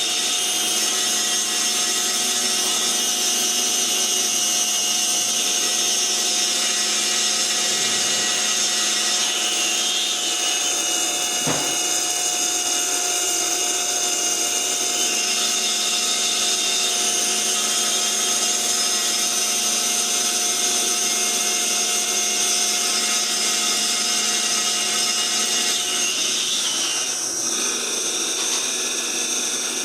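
A CNC machine's spindle runs steadily with a high whine as it mills a small wooden ring insert. There is one brief click about a third of the way in.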